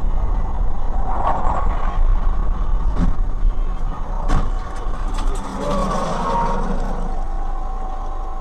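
Car running: a steady low rumble of engine and road noise, with two sharp knocks about three and four and a half seconds in.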